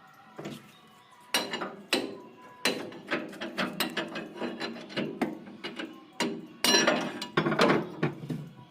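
Irregular metal clanks, knocks and scraping from hand tools working on the metal parts of a Mahindra Swaraj combine harvester during disassembly, loudest in a cluster near the end.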